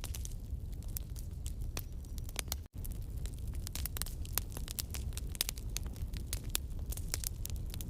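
Campfire crackling: wood popping and snapping at irregular intervals over a steady low rumble of the flames. The sound cuts out for an instant about a third of the way in.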